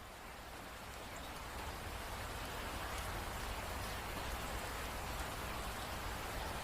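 Steady rain falling, with a low rumble underneath. It fades in over the first two to three seconds, then holds at an even level.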